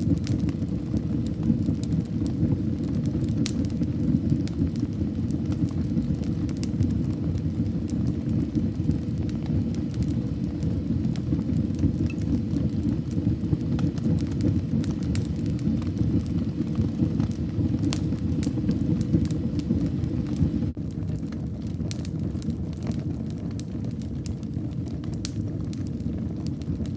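Fireplace fire burning with a steady low rumble of flames and many scattered sharp crackles and pops. The level drops a little about three quarters of the way through.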